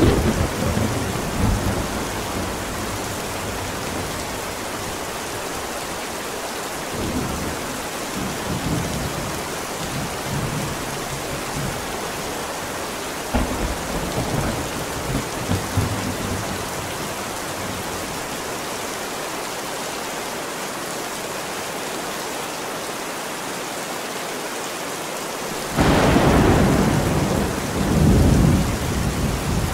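Steady rain with thunder rumbling low several times, then a sudden loud thunderclap near the end that rolls on for a few seconds.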